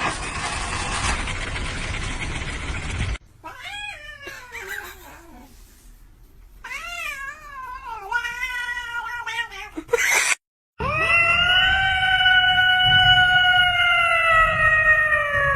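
Cats meowing and yowling: after a few seconds of rushing noise, several short rising-and-falling meows, then one long drawn-out yowl that sags in pitch near the end.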